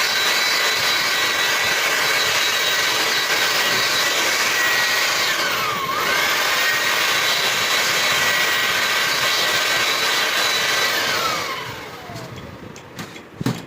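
A high-speed power tool motor runs with a steady whine over a loud rushing noise. Its pitch dips briefly about halfway through, as under load, and near the end it is switched off and spins down with a falling whine.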